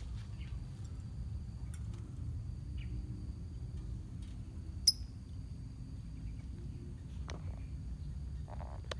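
Lovebird colony: a single short, sharp, high chirp about five seconds in, over a steady low rumble of background noise with a few faint clicks.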